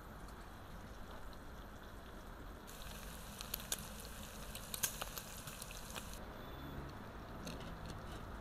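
Food frying in hot oil: a steady sizzle with scattered sharp pops, most of them in the middle.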